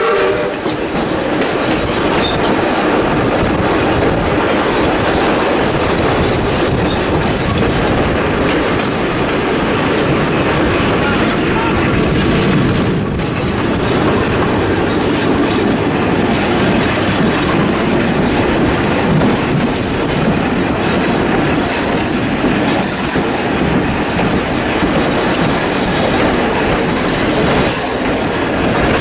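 Wooden passenger carriages of a steam-hauled train running on the rails, heard close up from a carriage window: a steady rolling rumble with the clickety-clack of the wheels, and brief high wheel squeals now and then in the second half.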